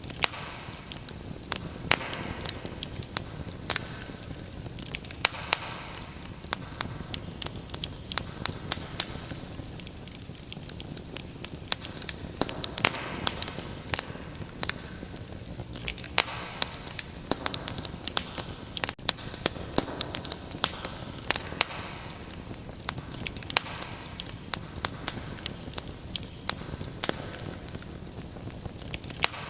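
Wood fire crackling: many irregular sharp pops and snaps over a steady low hiss of burning.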